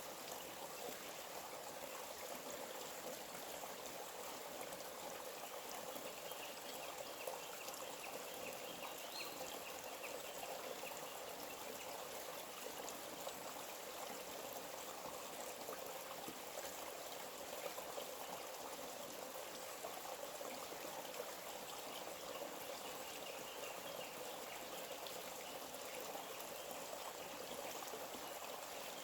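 A small forest stream running steadily, its water trickling and splashing without a break.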